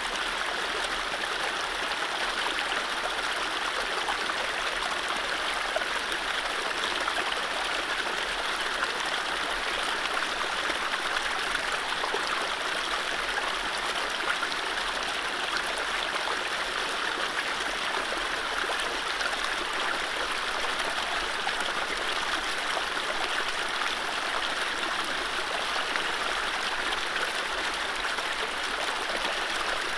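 Mountain stream running over low rapids: a steady, even rush and babble of water.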